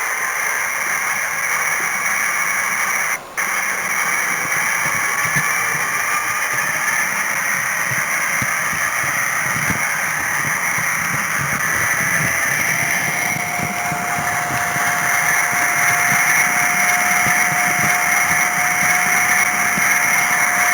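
Running noise of an H0 scale model train, picked up by a camera riding on it: a steady whirring of motor, gears and wheels on the rails, with whines that slowly shift in pitch. The sound cuts out briefly about three seconds in, and a steady higher tone joins about twelve seconds in.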